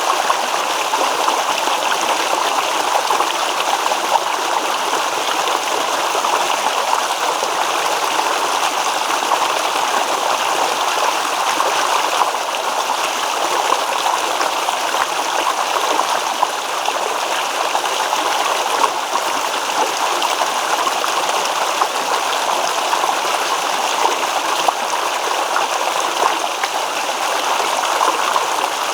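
Small stream babbling and rippling over rocks in a steady, even rush of water.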